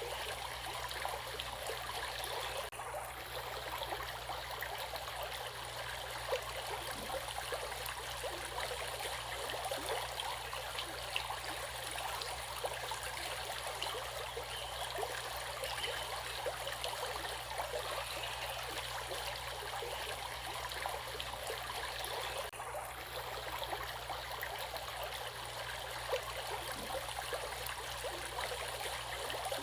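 Water flowing in a stream: a steady rush with many small gurgles and trickles.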